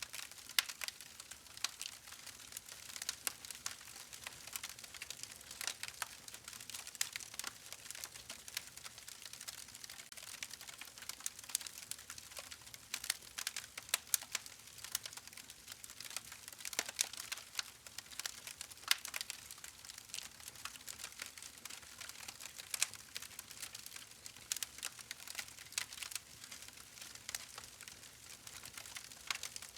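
Wood fire crackling: a steady soft hiss with frequent small sharp pops and snaps, a few louder ones scattered throughout.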